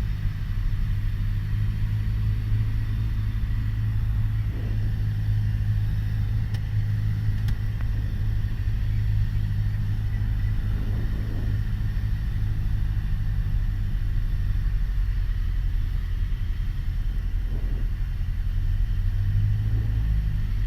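Piper PA-28 Warrior's four-cylinder Lycoming O-320 engine and propeller droning steadily, heard from inside the cabin.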